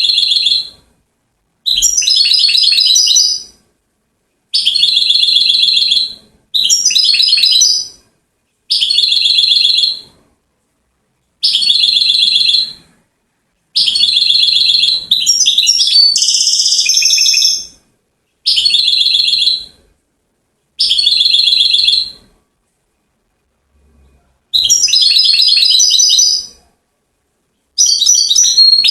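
A European goldfinch singing in short phrases of fast twittering trills and buzzy notes, about a dozen of them, each lasting a second or two with brief pauses between.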